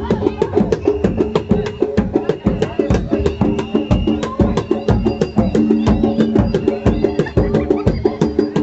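Live Javanese gamelan accompaniment for a bantengan dance: fast, dense hand-drum strokes over repeated metallic pitched notes, with a higher held tone coming in and out.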